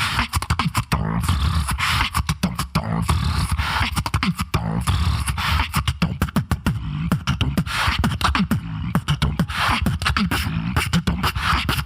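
Solo human beatboxing: a dense stream of rapid percussive mouth hits over a low, sustained bass line.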